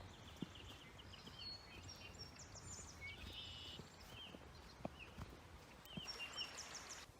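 Several small birds chirping and trilling in short repeated calls over a faint outdoor hiss, with a few scattered soft knocks. The calls and hiss cut off abruptly near the end.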